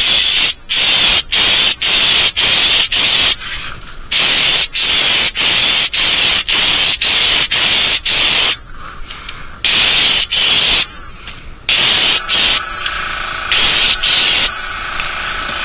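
Airbrush spraying paint in short hissing bursts, the trigger pulsed on and off about twice a second with a few longer passes. A faint steady hum comes in under the spraying near the end.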